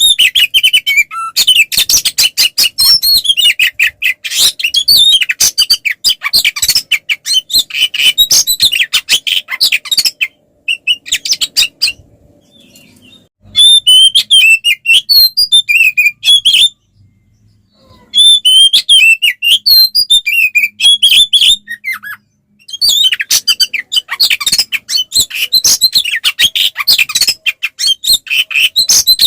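Oriental magpie-robin (kacer) singing a loud, full, combative song of rapid high notes and chattering phrases. It sings in long bouts, breaking off briefly about ten seconds in and again a little past halfway.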